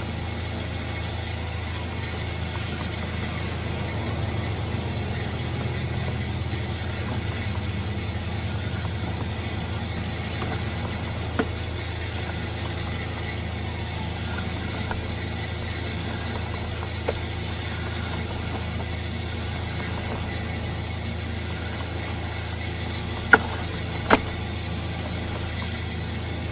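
An engine idling with a steady low hum, with a few sharp clicks, two of them close together near the end.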